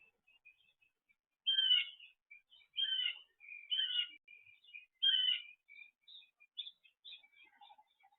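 Wild songbirds calling at a feeder: four loud calls, each a quick run of notes dropping in pitch, about a second apart, with soft chirps and twitters between and after them.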